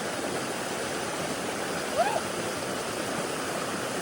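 A mountain creek swollen by overnight rain, rushing steadily and strongly. About halfway through, a single short rising cry cuts in over the water.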